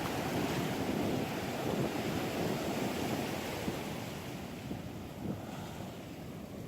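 Ocean surf washing on the beach, with wind buffeting the microphone; the wash is loudest at first and eases off about four seconds in.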